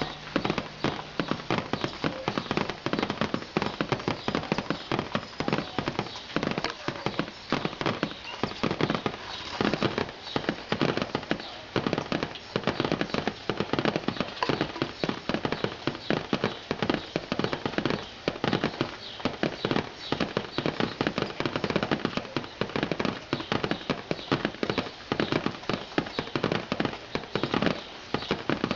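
Rain falling on a hard surface: a dense, irregular patter of drop impacts.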